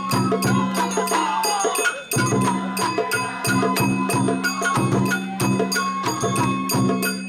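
Japanese festival hayashi music: quick, even strikes of ringing metal percussion over a steady low tone, with a melody line that slides around it.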